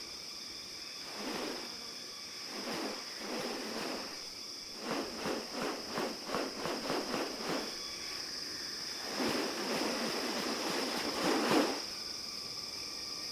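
Steady high-pitched drone of rainforest insects. Over it come a few harsh bursts, then a rapid run of about ten pulses in the middle, and a longer rushing sound that swells near the end.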